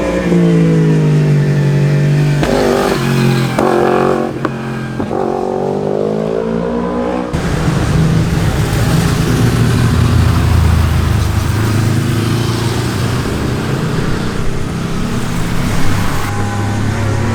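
Sport motorcycle exhaust, the engine revving up and down through gear changes, its pitch swooping several times. About seven seconds in the sound cuts abruptly to another motorcycle engine, rougher and steadier in pitch.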